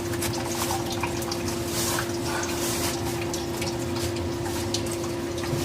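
Water trickling and dripping in a furnace humidifier's water reservoir, with small scattered splashes over a steady hum.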